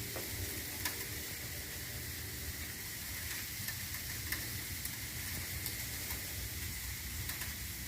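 Snow falling: a steady faint hiss with scattered light ticks.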